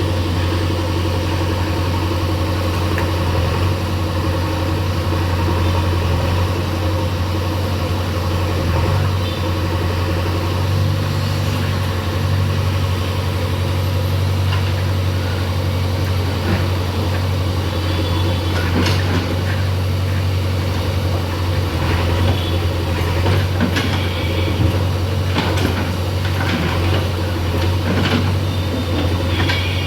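JCB earthmover's diesel engine running steadily at a low, even pitch, with scattered knocks and clanks over the second half.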